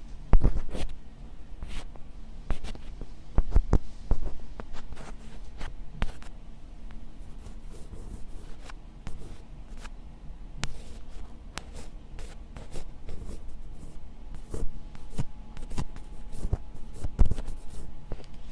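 Close-miked ASMR scratching: crisp, irregular scratches and clicks with no whispering.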